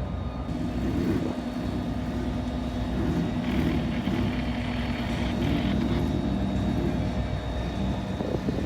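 A car engine running with a steady low drone, which eases off about seven seconds in.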